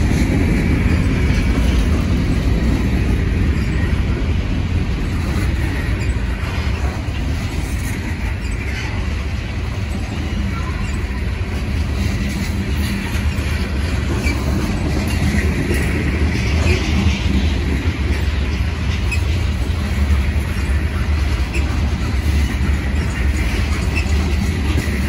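Freight train cars rolling past, covered hoppers then loaded tank cars, with a steady rumble of steel wheels on rail.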